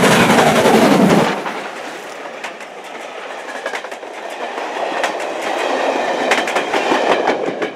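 Railway wheels clicking and knocking over rail joints as a train rolls along, with faint squealing tones. A loud rushing noise drops away about a second in.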